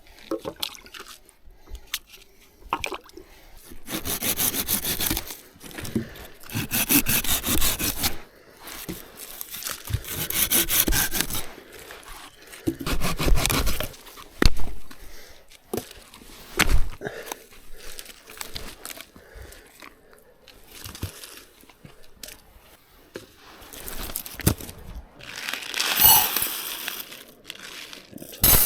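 Knife blade carving thin curls from a stick of wood, making a feather stick for fire-lighting: repeated scraping strokes of a second or so each, with short pauses between.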